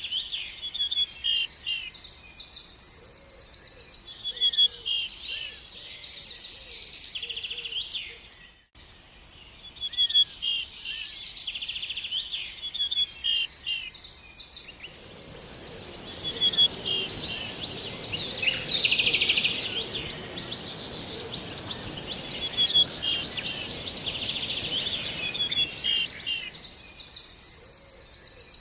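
Several small songbirds chirping and twittering, with many short high notes and rapid buzzy trills overlapping. The sound fades out briefly about a third of the way in, and from about halfway to near the end a steady high hiss and a low rumbling background noise run under the birdsong.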